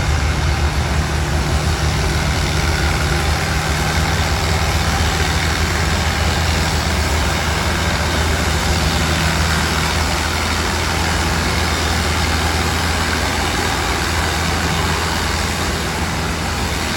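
Antique pulling tractor's engine running at a steady, even speed with a low, unchanging engine note and no revving.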